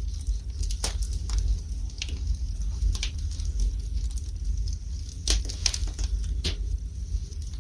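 Wood fire burning in a fireplace: irregular sharp crackles and pops from the burning logs over a steady low rumble of the flames, with a cluster of louder pops about five to six and a half seconds in.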